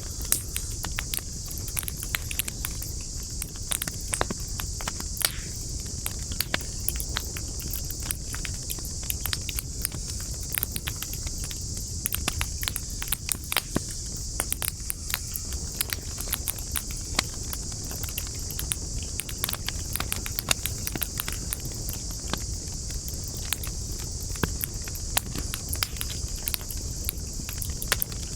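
Campfire wood burning with dense, irregular crackles and pops over a low steady rumble, with a steady high-pitched hiss behind.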